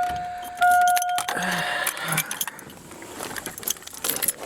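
A car's warning chime sounding a steady tone, repeating, and stopping about two seconds in, followed by light clicks and rattles.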